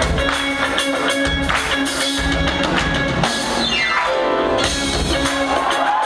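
Upbeat band music with drum kit and guitar playing a steady beat, with a quick falling sweep in pitch about three and a half seconds in.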